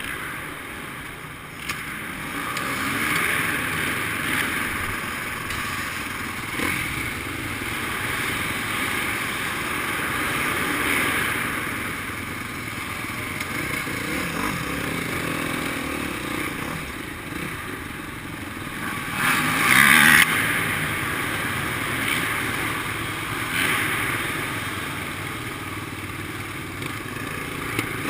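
Motocross bike engines running on a dirt track, revving up and dropping off every few seconds, with a louder surge about two-thirds of the way through.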